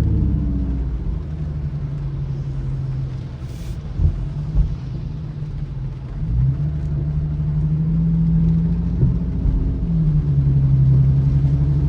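Infiniti Q50's engine heard from inside the car while driving: the revs ease off at first, climb again about six seconds in, hold, then drop back near ten seconds. A couple of short light knocks come around four seconds in.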